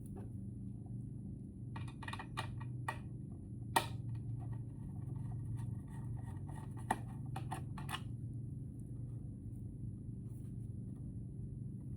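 Light clicks and taps of small tools and parts being handled, over a steady low hum. There is a cluster of clicks about two to three seconds in, the sharpest just under four seconds in, and another near seven seconds.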